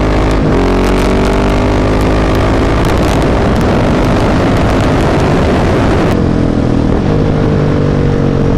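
Husqvarna 701's single-cylinder engine through an aftermarket Mivv exhaust, pulling hard under open throttle. About six seconds in the throttle closes: the loud rushing sound cuts off suddenly and the engine note winds down.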